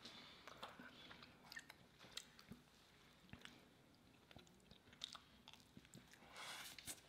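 Faint chewing: quiet, scattered mouth clicks of someone eating bourbon fudge pie, with a soft breath near the end.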